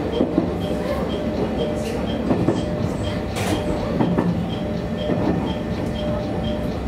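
JR Kyushu YC1 series hybrid railcar running along the track, heard from behind the driver's cab: a steady running noise with wheels clicking over the rails now and then, the loudest click about halfway through. A faint regular tick comes about twice a second.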